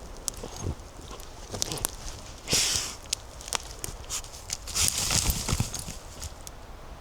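Footsteps on a forest floor, with twigs snapping and dry leaves rustling underfoot, the loudest rustles about two and a half and five seconds in.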